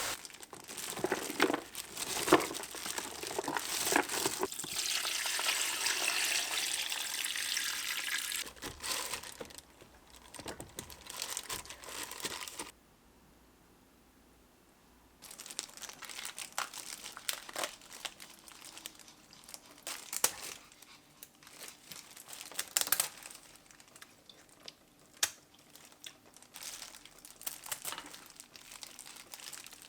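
Crinkling and crackling with many sharp clicks and taps, over a steady hiss for the first several seconds; the sound drops out completely for a couple of seconds about halfway through.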